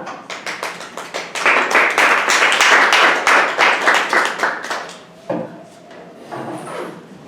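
Audience applause: scattered claps that swell into dense clapping for a few seconds and die away about five seconds in.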